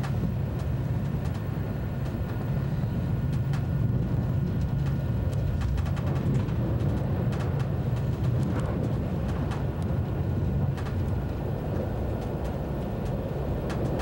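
First-generation ICE high-speed train running: a steady low rumble with scattered light clicks.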